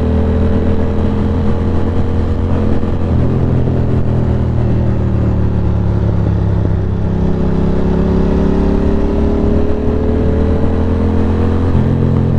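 Ducati Monster 620's air-cooled 90-degree V-twin running steadily under way. Its pitch dips slightly, then rises again in the second half as the rider gets back on the throttle.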